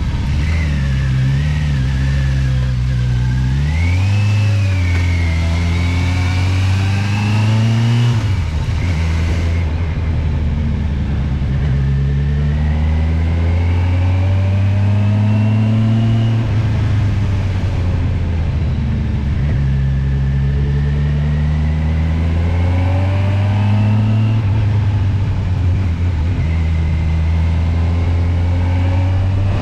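Kawasaki motorcycle engine climbing a twisty mountain road, its pitch rising several times as it accelerates out of bends and falling as it eases off between them. A hiss over it thins out about ten seconds in.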